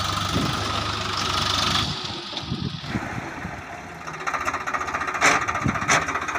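Diesel tractor engine running, with its sound changing about two seconds in and a fast rhythmic clatter later on. Near the end there are two sharp knocks.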